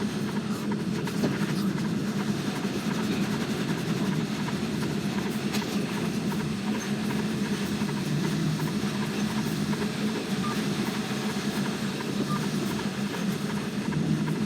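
Articulated lorry's diesel engine running steadily as the truck manoeuvres, a low even drone.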